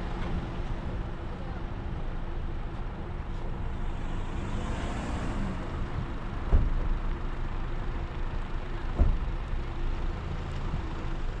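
A car driving on the road: a steady hum of engine and tyre noise, with two sharp thumps about six and a half and nine seconds in.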